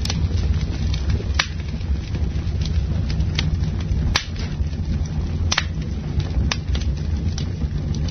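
Campfire burning: a steady low rumble of flames with sharp pops and crackles from the wood every second or so.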